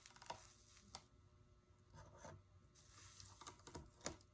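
Faint scraping and scattered light clicks from hand work on a stained-glass panel, as tools and glass pieces are worked loose at the soldered joints.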